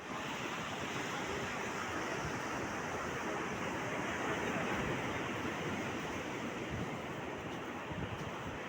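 Steady rushing noise, even and unbroken, with no distinct calls standing out.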